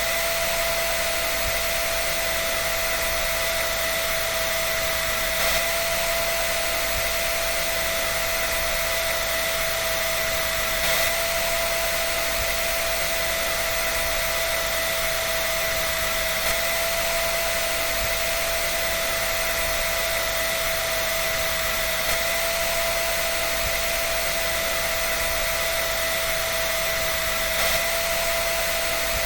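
Hair dryer running steadily: rushing air with a constant motor whine, and a faint slight bump about every five and a half seconds.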